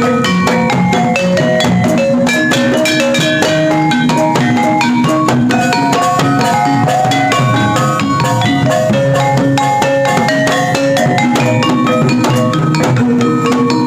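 Gamelan ensemble playing a fast, steady piece for jaran kepang: tuned metal percussion struck in quick repeated notes over continuous drumming.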